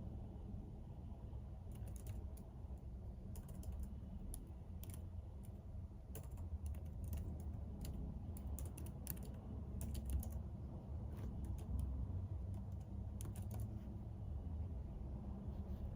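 Typing on a computer keyboard: irregular runs of key clicks with short pauses, starting about two seconds in and stopping near the end, over a steady low hum.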